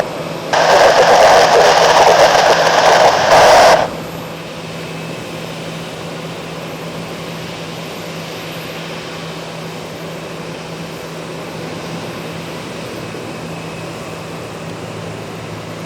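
A loud burst of radio static for about three seconds, cutting in and out sharply, as a transmission is keyed with no words. Under it and after it, the Airbus C295M's twin turboprops hold a steady drone with a low hum.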